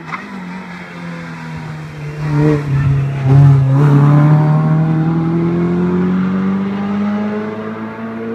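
Renault hillclimb race car engine at full throttle. It gets much louder as the car comes close, changes gear about three seconds in, then rises steadily in pitch as it accelerates away.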